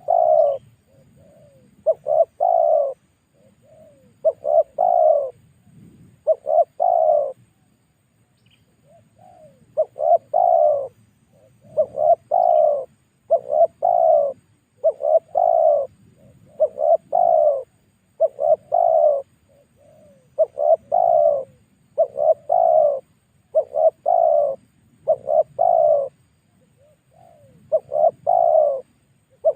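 Spotted dove cooing, short coo phrases repeated every second or two with one brief pause about a quarter of the way in. This is the tekukur lure call used to draw other doves.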